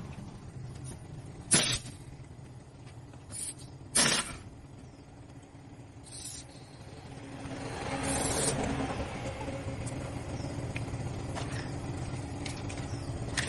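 A vehicle engine rumbling low, with a few sharp metallic clanks in the first four seconds. The engine grows louder about halfway through and then runs on steadily.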